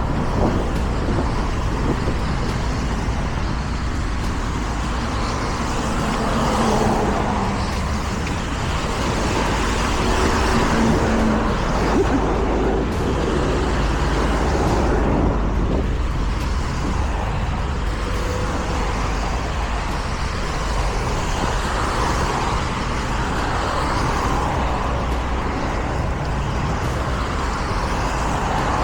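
Steady city road traffic noise with motor vehicles passing, under a continuous low rumble of rushing air.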